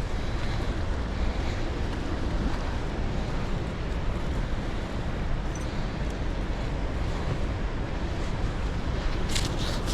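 Wind buffeting the microphone outdoors: a steady low rushing rumble that flickers in level, with a few brief clicks near the end.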